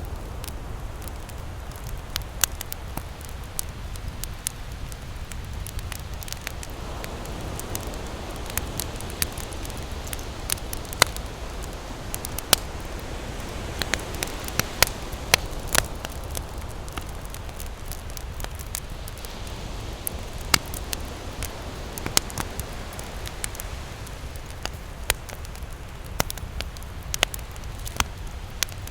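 Campfire crackling, with sharp pops at irregular intervals, over the steady low rush of ocean surf that swells now and then.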